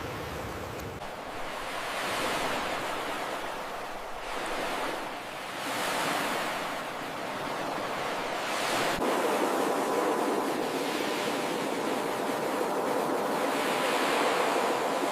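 Ocean surf washing on a shore, a steady hiss of water that swells as each wave breaks, every few seconds.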